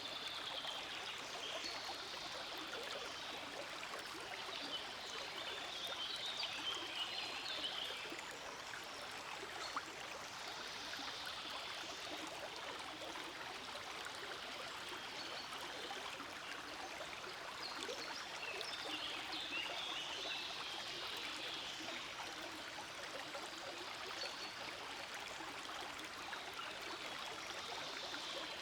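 Small forest stream flowing steadily: a continuous babble of running water, with brighter splashy spells that swell and fade every few seconds.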